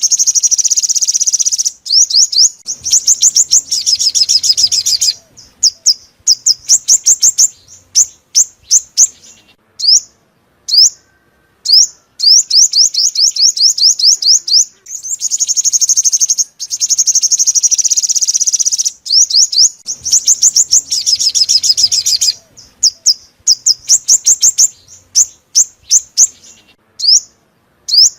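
Sunbird song, the purple-throated, yellow-bellied 'five-coloured sunbird': high, fast trills of rapid notes lasting a few seconds, alternating with runs of separate short rising notes. The sequence repeats about every 15 seconds, as a looped lure recording for trapping.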